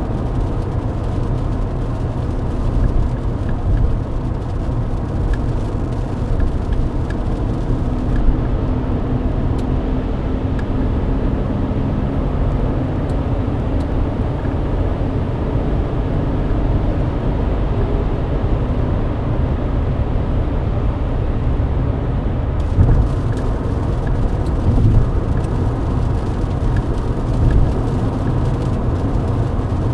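Mercedes-Benz W124 cruising at highway speed, heard from inside the cabin: a steady roar of engine and tyres on a wet road. A faint hum sits over it for a few seconds, then fades out about a third of the way in.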